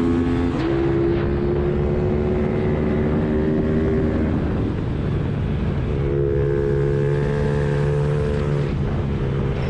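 Suzuki Hayabusa inline-four engine in a pit bike running hard around a track, its note holding steady between changes in throttle, with a rougher stretch about halfway through.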